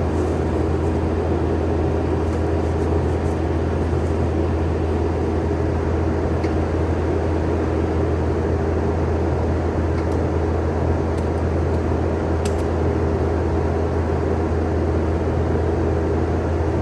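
Skid steer engine running steadily at a constant speed, with a few faint clicks about twelve seconds in.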